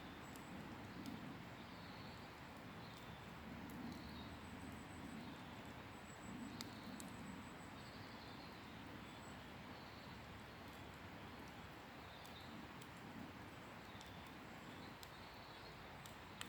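Wood campfire burning quietly, with a scattering of sharp crackles and pops from the burning wood over a low steady rush.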